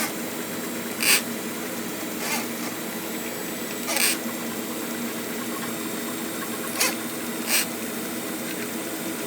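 Electric flexible drain rodder (FRE) running steadily as its wire cable is being drawn back out of the drain, with about six sharp clacks scattered through.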